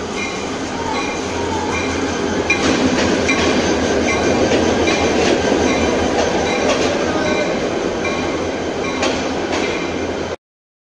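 Diesel-electric passenger train running past a station platform: a steady engine drone and the rumble of the coaches, with the wheels clacking over rail joints from about two and a half seconds in. The sound cuts off abruptly near the end.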